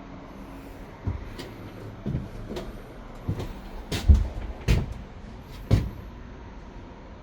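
An irregular series of about seven sharp knocks and clunks over roughly five seconds, some ringing briefly, the loudest about four seconds in: work on a truck's cargo body.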